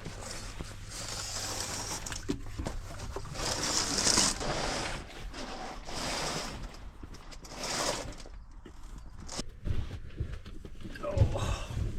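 Rustling, shuffling and light knocks of someone moving belongings about in a cramped lorry cab, coming in swells a few seconds apart over a low hum.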